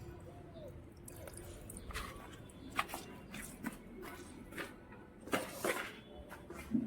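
Raw fish being washed by hand in water: irregular wet squelches, splashes and drips, with a few sharper knocks.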